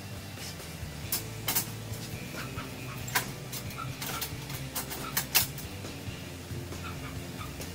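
Square metal tubing clinking and knocking against a welded metal cage frame as it is set down and fitted into place: a scatter of sharp taps, the loudest about three and five seconds in, over soft background music.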